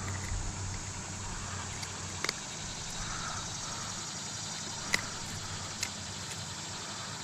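Steady outdoor background hiss with a handful of sharp clicks and taps, the loudest about five seconds in.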